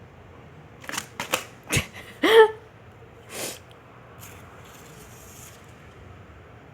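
A few sharp clicks and knocks, then a short meow from a domestic cat that rises in pitch, the loudest sound, followed by a brief breathy rush of noise.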